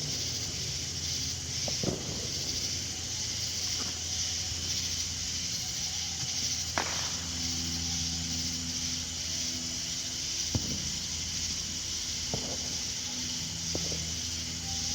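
Steady outdoor background noise: a continuous high hiss and a low steady hum, with a few scattered faint clicks.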